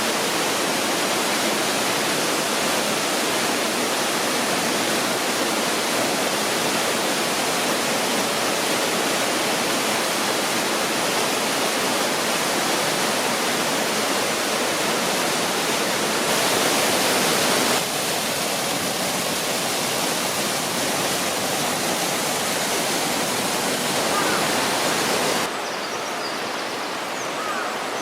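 Shiwagara Waterfall's falling water making a steady rushing noise. It turns briefly louder and brighter a little past halfway, then quieter and duller for the last couple of seconds.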